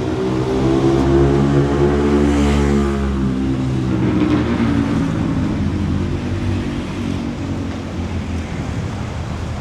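A motor vehicle's engine running close by as it passes, loudest about one to three seconds in, its pitch rising a little and then falling away, over general street traffic noise.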